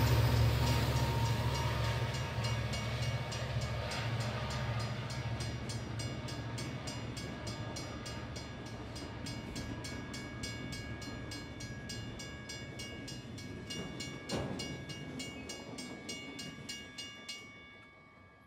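Train sound fading out: a low rumble that dies away under a regular rapid ticking, about four to five ticks a second, with faint steady tones and one sharp knock about fourteen seconds in.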